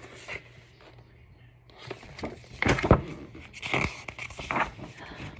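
Pages of a picture book being handled and turned: paper rustling and crinkling with a few soft knocks, loudest about three seconds in.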